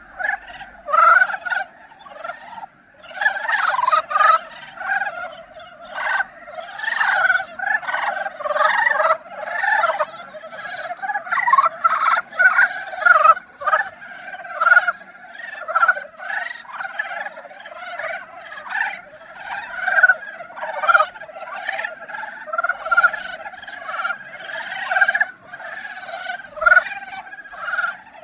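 Breeding chorus of Dybowski's brown frogs (Korean brown frogs): many males calling at once in short, rapid, overlapping notes that swell and fade continuously.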